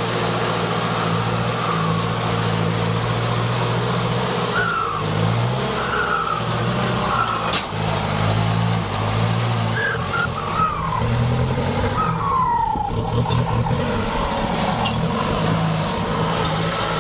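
Kubota tractor's diesel engine running steadily, a low drone that shifts slightly in pitch now and then.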